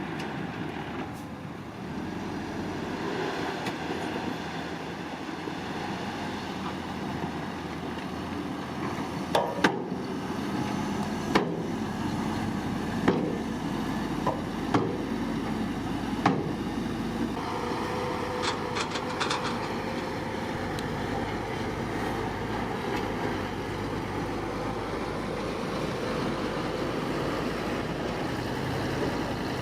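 Heavy construction machinery running steadily, with a series of sharp knocks about a second and a half apart near the middle.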